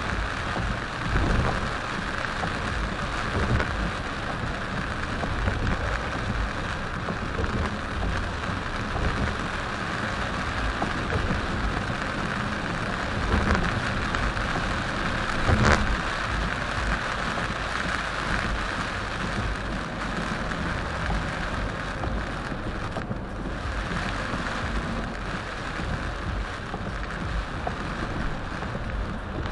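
Heavy rain pelting the car while it drives on the highway, a steady hiss over a low road rumble. One sharp knock about halfway through.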